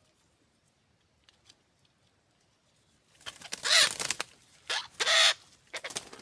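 A bird giving three loud, harsh, raspy squawks, starting about three seconds in, followed by a few softer ones.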